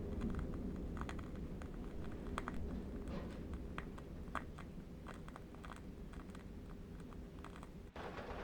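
Light, irregular clicks and ticks over a steady low rumble, with a brief dropout near the end after which the background becomes more hissy.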